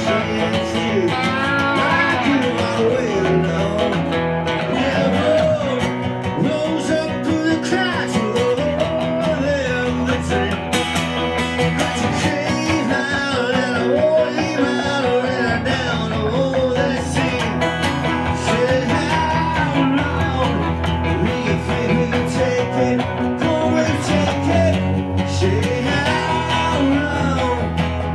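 Live band performing a roots-rock song: strummed guitars under a sung melody line.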